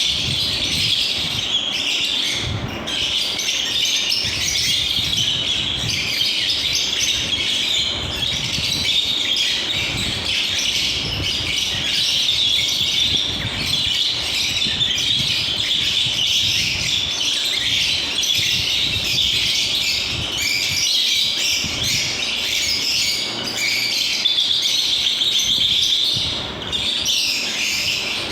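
A flock of lovebirds chirping steadily, many high calls overlapping without a break, with a few squawks.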